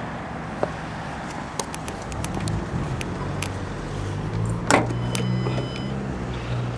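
Low, steady hum of a car engine running, which grows louder about two seconds in, with a few light clicks and one sharp knock near the middle.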